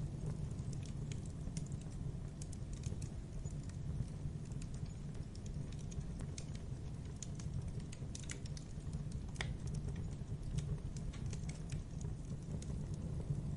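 Campfire burning: a steady low rumble with frequent irregular crackles and pops of burning wood.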